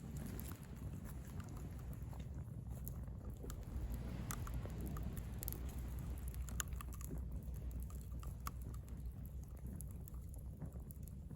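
Driftwood campfire crackling, with irregular sharp pops and ticks over a steady low rumble.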